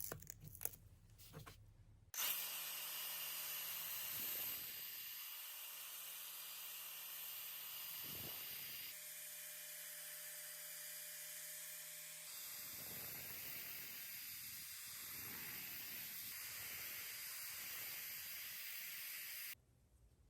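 Sandblaster hissing steadily as compressed air drives abrasive, stripping rust from cast iron. The hiss starts abruptly about two seconds in and cuts off near the end.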